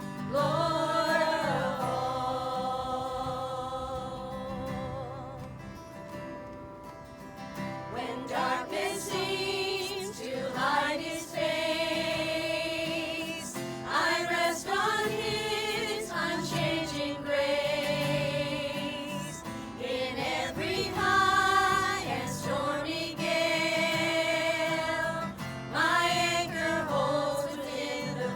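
Voices singing a gospel hymn in long held notes with vibrato, moving from note to note every couple of seconds.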